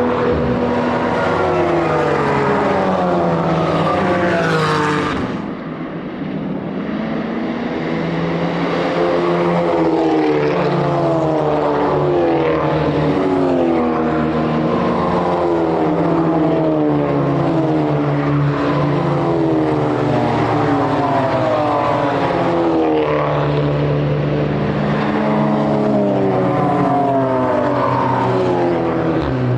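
Racing car engines at full throttle passing trackside, one after another. The pitch climbs and drops back again and again as the drivers shift up through the gears, with a short lull about five seconds in.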